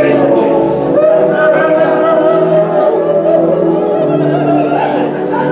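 Group of voices singing together in long held notes, in a slow worship song.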